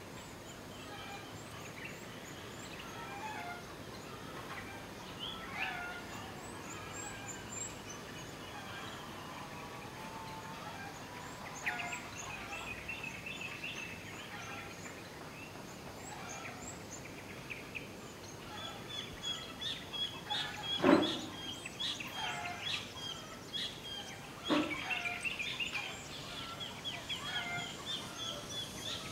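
Ambience of many birds chirping and calling, with a steady high trill of rapid chirps in the last third. Two louder, short calls stand out near the end.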